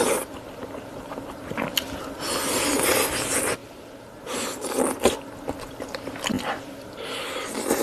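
Close-up eating sounds: spicy peeled crayfish tails bitten off bamboo skewers and chewed, in uneven bursts with a few clicks, the longest burst near the middle.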